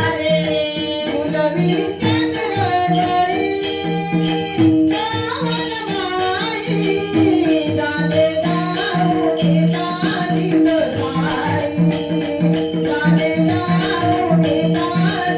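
Marathi gaulan bhajan sung by a devotional group: a wavering sung melody over steady held drone notes, with a hand drum and jingling cymbals keeping a steady beat.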